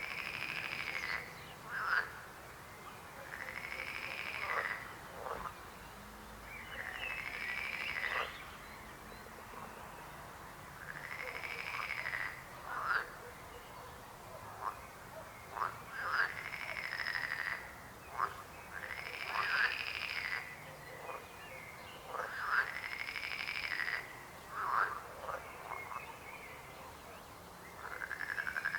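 Frogs croaking: a call about every three to four seconds, each lasting a second or more, with short sharp croaks in between.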